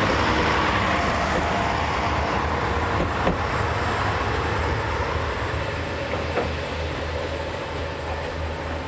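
Yufuin no Mori diesel express train running past and pulling away, its rumble of wheels on rail fading after the last car goes by. There are two sharp clicks, about three and six seconds in.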